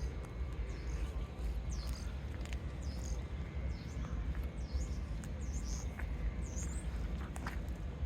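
A small bird chirping: a series of short, high chirps, roughly one a second, over a steady low rumble.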